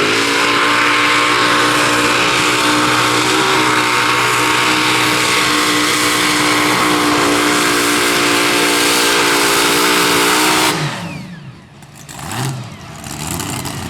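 Competition pulling tractor's engine at full throttle, its pitch rising in the first moments and then holding steady at high revs. It cuts off suddenly about eleven seconds in, with a short swell about a second later.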